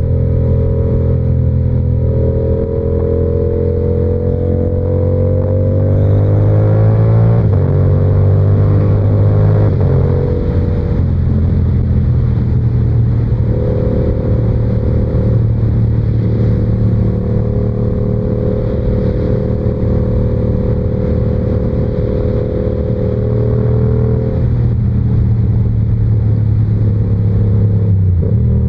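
Yamaha R7's 689 cc parallel-twin engine riding under way through an SC-Project exhaust. A few seconds in it pulls up through the revs, steps down twice as it shifts up, then holds a steady cruise, with a brief dip near the end. Wind and road noise run under it.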